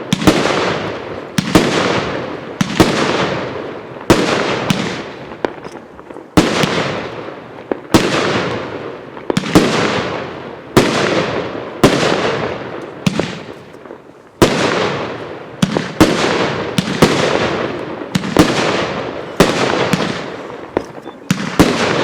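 Consumer fireworks cake ('Modern Age') firing a steady string of shots, about one every second and a half. Each shot is a sharp bang followed by a fading hiss.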